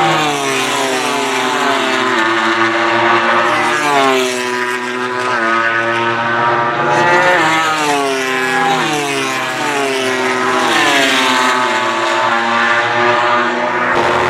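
Several racing motorcycles passing one after another at speed, engine pitch repeatedly rising and falling.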